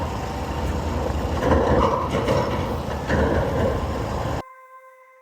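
Motorbike road noise: wind buffeting the microphone over engine and traffic rumble, cut off abruptly about four seconds in. A soft keyboard chord of background music starts there.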